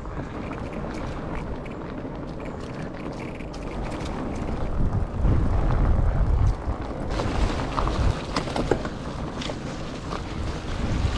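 Wind rumbling on the microphone while riding a fat bike over rough ground, louder for a couple of seconds midway, then with scattered clicks and rattles.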